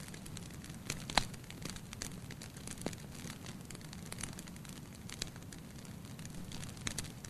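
Wood fire in a fireplace burning with a steady low hiss under scattered sharp crackles and pops, the loudest pop about a second in.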